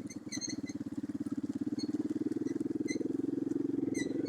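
Orion-100 moped engine running at a steady pace while riding, picking up just after the start. Short, high squeaks come on top of it several times.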